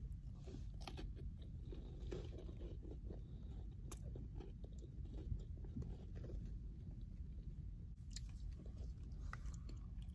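A person biting into and chewing a cracker with dip, with irregular crisp crunches.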